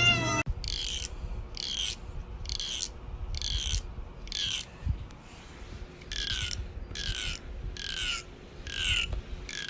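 A bird calling over and over: short harsh calls, each falling in pitch, about once a second, with a brief pause partway through.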